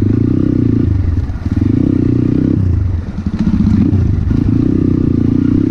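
Motorcycle engine running while riding, easing off briefly twice and then picking up, its pitch rising about three seconds in as it accelerates.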